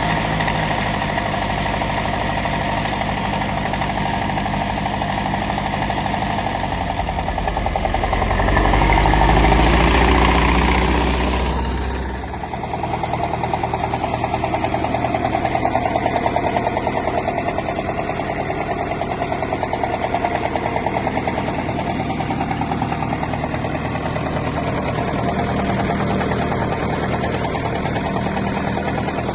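Ferguson tractor engine running at idle, revved up briefly about eight seconds in and dropping back to a steady idle a few seconds later.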